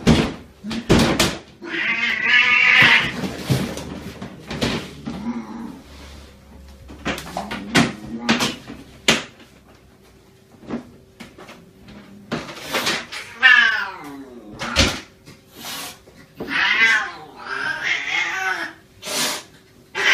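Cats meowing: several drawn-out meows, one gliding down in pitch about two thirds of the way through, with short knocks and clicks between them.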